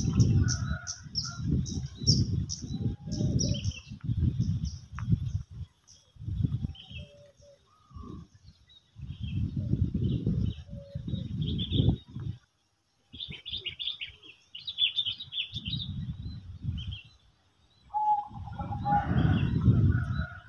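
Small birds chirping, with short high notes and a quick run of repeated chirps at the start. Louder gusts of low wind rumble on the microphone come and go over them. Everything drops out for a moment about twelve seconds in.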